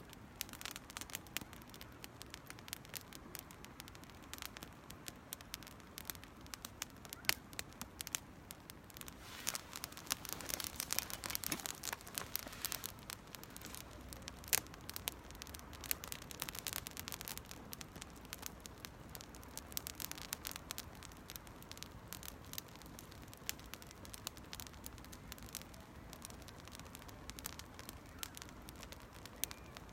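Small campfire of dry cedar leaves and twigs crackling, with a steady run of sharp pops that grows busiest about a third of the way in.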